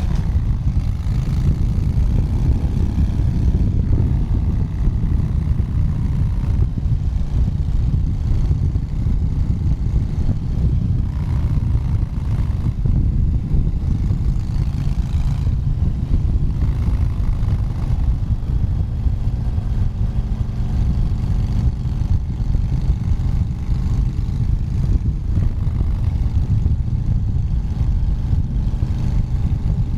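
Motorcycle riding down a highway: the engine's note drops in pitch in the first second, then runs on steadily under a constant low rumble.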